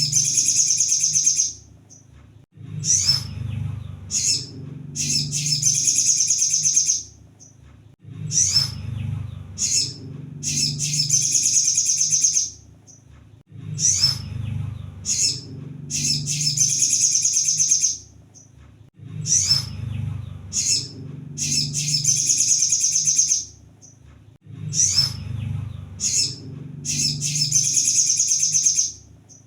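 Sunbird (kolibri sogon) singing the same phrase over and over, about every five and a half seconds: a few sharp high chips, then a fast, dense, high twittering burst of about two seconds, with a low hum under each phrase.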